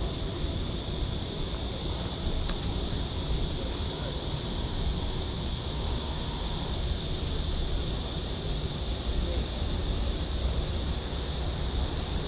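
Steady outdoor ambience: a constant high, shimmering drone of insects over a low rumble of wind on the microphone.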